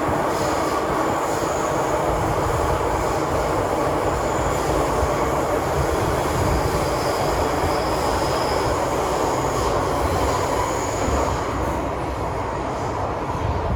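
Inside the cabin of an MTR M-train electric multiple unit running between stations: a steady rumble of wheels on rail with faint high-pitched wheel squeal, easing a little near the end.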